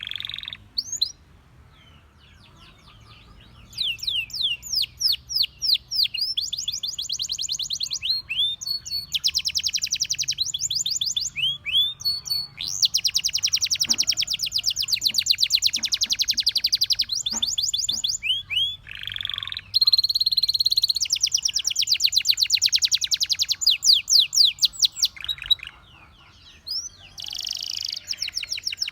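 Domestic canary singing, with long, fast trills of rapidly repeated high notes and a few sustained tones. The song breaks off briefly about a second in and again near the end.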